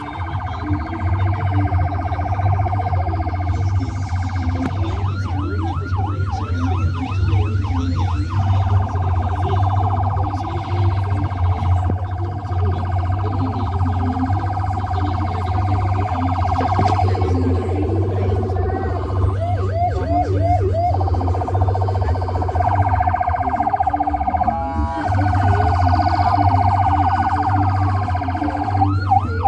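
Electronic siren sounding continuously, switching between a long held wail and short spells of rapid yelping warble, over a steady low hum.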